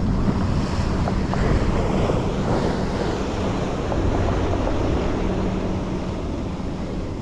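Surf breaking and washing up the beach, one wave swelling about a second in, with wind buffeting the microphone.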